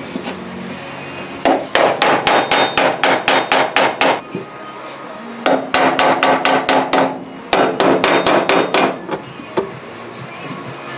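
Hammer tapping rapidly on metal in three runs of quick strikes, about five a second, with short pauses between the runs.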